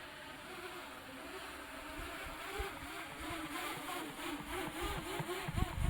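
Quadcopter drone's propellers buzzing, the pitch wavering up and down and the sound growing louder as the drone comes down. There are a couple of low thumps near the end.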